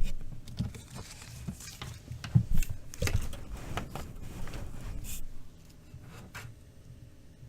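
Hands handling an LED light strip's USB cable and plug: scattered light clicks, taps and rustles, with a couple of sharper knocks about two and a half to three seconds in.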